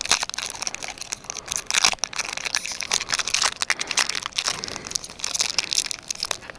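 Foil Pokémon booster pack wrapper crinkling and crackling continuously in the hands as it is pulled and torn at, the pack resisting opening.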